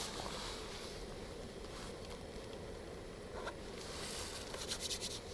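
Portable camping gas burner running steadily under a frying pan, with a few light clicks near the end.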